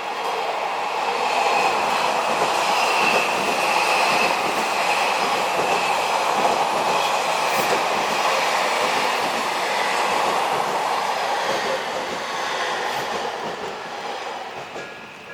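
Odakyu electric train passing over the level crossing close by, wheels rumbling and clattering on the rails with some squeal. It swells over the first couple of seconds and fades over the last few. The crossing's warning bell rings underneath, heard at the start and end.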